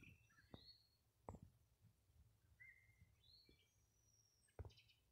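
Near silence, with a few faint short bird chirps and a few soft clicks.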